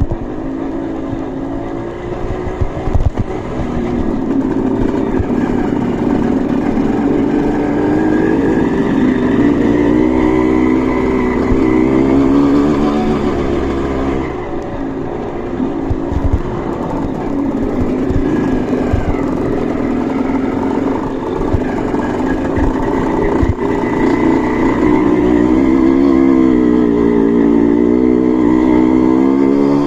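Off-road trail motorcycle engine running under load, its revs rising and falling again and again.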